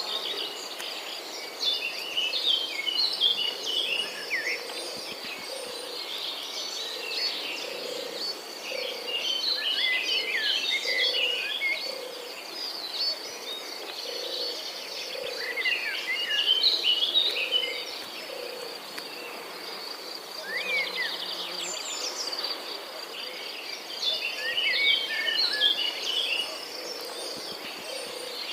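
Outdoor nature ambience: insects keep up a steady high trill, and songbirds sing in bursts of quick chirping phrases over it. A soft low note repeats about once a second.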